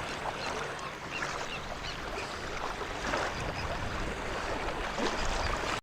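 Calm sea washing softly on the shore, a steady even wash of small waves.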